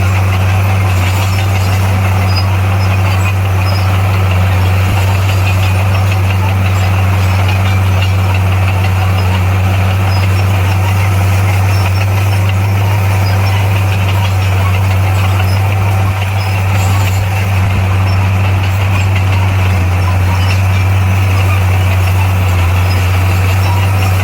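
Komatsu bulldozer's diesel engine running steadily, a constant low drone.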